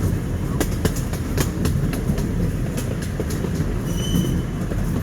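Amusement-park passenger train rolling along its track, heard from a riding car: a steady low rumble with irregular sharp clicks from the wheels on the rails, and a faint, brief high squeal about four seconds in.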